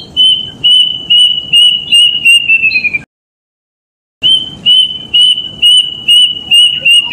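Kedasih cuckoo calling: two phrases of clear whistled notes, each about eight evenly spaced notes that run faster and drop in pitch at the end, with a pause of about a second between the phrases.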